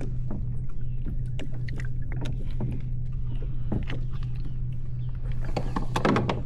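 Scattered knocks and clicks of handling in a kayak, over a steady low hum, with a quick cluster of clicks near the end.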